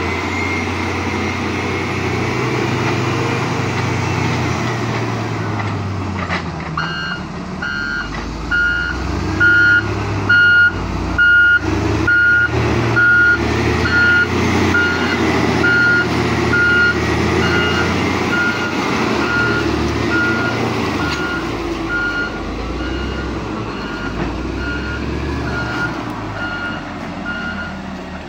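Hino 500 dump truck's diesel engine running while it backs up. Its reversing alarm starts about a quarter of the way in, beeping evenly about one and a half times a second, and the beeps grow fainter toward the end.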